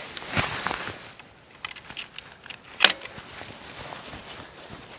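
A bunch of keys jangling and clicking as they are handled, with light rustling and one sharp click about three seconds in.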